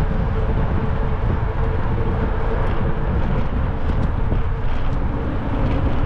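Steady wind rush on the microphone with road noise while riding along a road, and a faint steady hum underneath.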